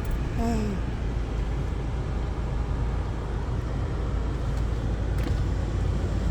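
A car running with a steady low rumble, heard close up, with a brief vocal sound about half a second in.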